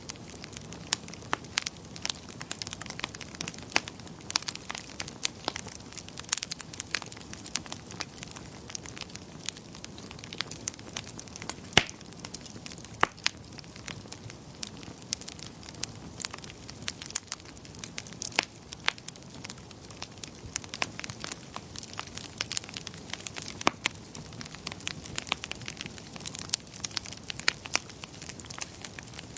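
Wood fire crackling: frequent irregular sharp pops and snaps over a soft steady hiss of burning.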